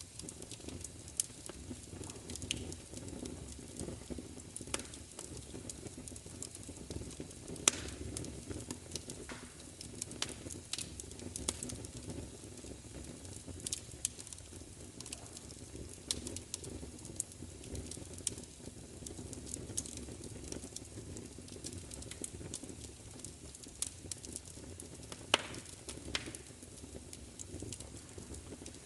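Fire crackling: irregular sharp pops and snaps over a low, steady rush of flames, with a few louder pops about 8 and 25 seconds in.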